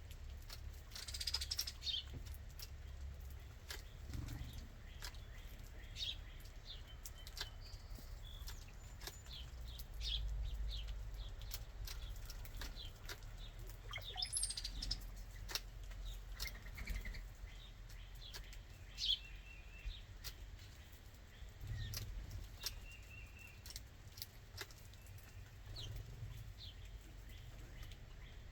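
Backyard songbirds giving short, scattered chirps and calls, with a brief flutter of wings about a second in.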